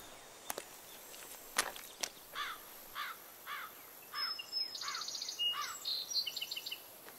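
Birds calling in open countryside: a short arched call repeated about twice a second, with higher chirps and trills over it in the second half. A few sharp clicks come in the first two seconds.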